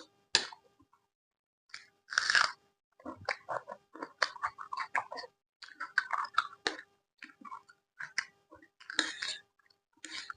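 Close-miked eating: loud crunchy bites into fried food, about three of them, with quick crackly chewing in between.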